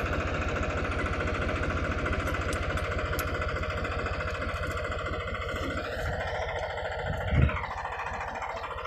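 Tractor diesel engine running with a fast, even chug; about six seconds in it revs up, then drops back with a short thump near the end.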